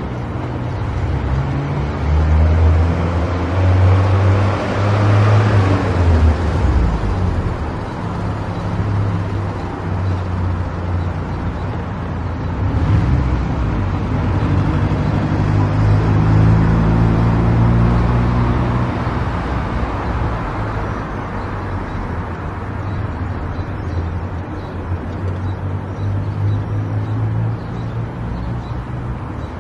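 Car driving on a road: engine hum and tyre and road noise, the engine note stepping up and down as the car speeds up and slows, loudest near the start and again about halfway through.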